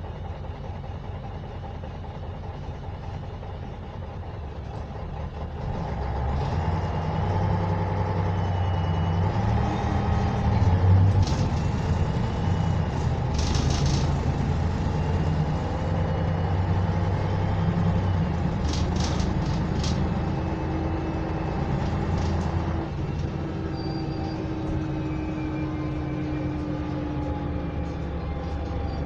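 Bus's YaMZ-236M2 V6 diesel heard from inside the cabin, pulling away about six seconds in and accelerating with its pitch stepping up through gear changes, then running more quietly. Several short hisses of compressed air come during the acceleration.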